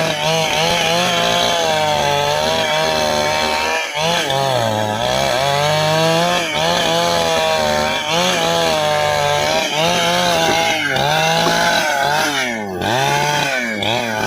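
Stihl two-stroke chainsaw cutting into a dry ipê log at full throttle, its engine pitch repeatedly sagging under load and picking back up. The cut is slow because of termite-nest soil packed inside the log. Near the end the engine speed drops as the throttle eases off.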